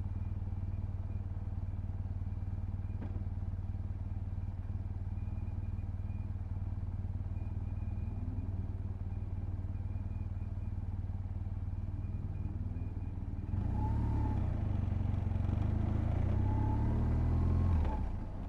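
BMW R1200GS (2007) boxer-twin engine running steadily under way. About three-quarters of the way through it gets louder with more wind and road noise, then eases off near the end.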